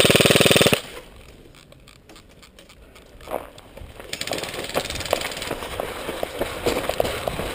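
Airsoft electric rifle firing a short full-auto burst of rapid shots that stops under a second in. From about halfway there is a steady rustling and crackling with irregular ticks, as of footsteps through dry undergrowth.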